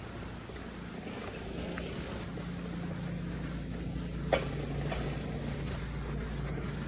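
A motor running with a steady low hum that grows a little louder, and a single sharp click about four seconds in.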